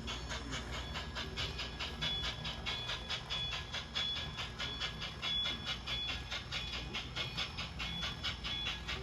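Model narrow-gauge locomotive running along the layout: a steady, rapid rhythm of beats, about five a second.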